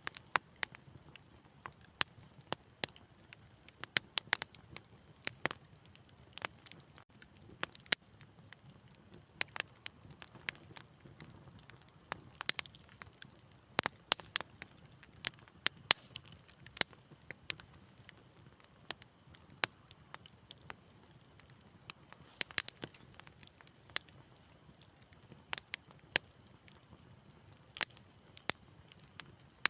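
Wood fire crackling: irregular sharp pops and snaps, several a second at times, over a faint low hiss of burning.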